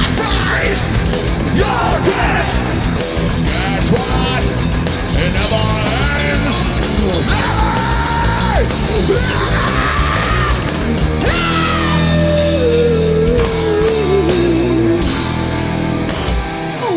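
A rock band playing a heavy, fast song live, with yelled vocals over guitar, bass and drums. A long falling note runs through the middle, and the music stops abruptly at the very end.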